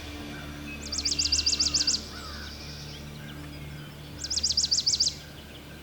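A songbird singing two rapid, high trills of quickly repeated notes, each lasting about a second, the second coming about three seconds after the first, over a steady low background hum.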